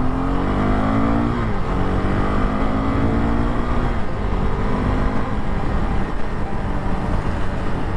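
Motorcycle engine accelerating while being ridden: its pitch climbs, then drops sharply about one and a half seconds in and again about four seconds in as it shifts up, over steady wind and road noise.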